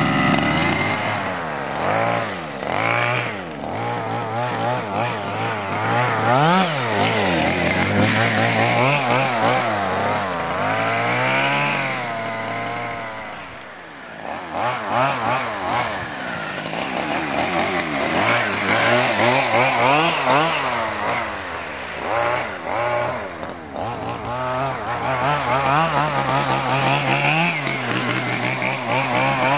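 Zenoah 26cc two-stroke engine of a large-scale RC car running during break-in, revved up and down again and again with the throttle. It eases off to a lower, quieter run about halfway through, then picks up again.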